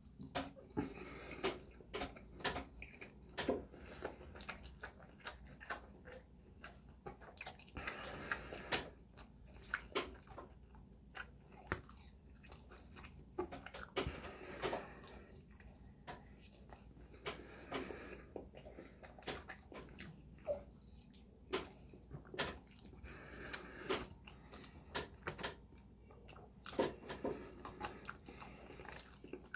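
Close-miked eating: chewing and biting on a loco moco plate (hamburger steak, rice and gravy) and gravy-covered crinkle-cut fries, with irregular mouth smacks and clicks throughout.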